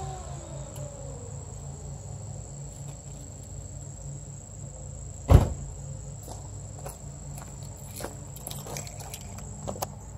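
2005 Mustang GT's 4.6-litre V8 through a Ford Racing exhaust idling with a low, even rumble as a rev falls away at the start. Crickets keep up a steady high chirr, and one sharp click comes about five seconds in, with a few fainter ones later.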